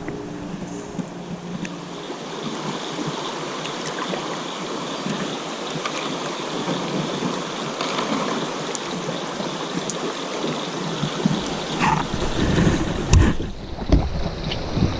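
Rushing river water around a kayak, a steady hiss. In the last few seconds low, irregular thumps and buffeting join in.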